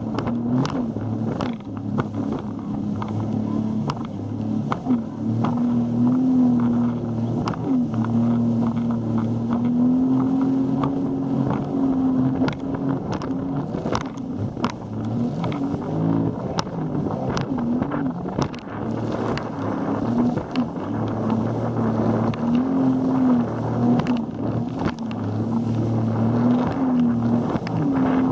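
Boat engine running steadily under way, its pitch wavering slightly up and down. Irregular short knocks and a rushing noise run alongside it.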